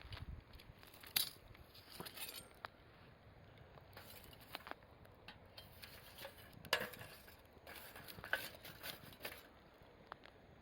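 Wood fire crackling: irregular sharp pops and snaps over a faint hiss, with louder snaps about a second in and near seven seconds.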